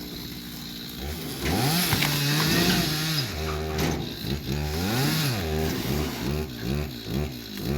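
Two-stroke chainsaw cutting pine logs. Its engine revs up and down over and over from about a second in.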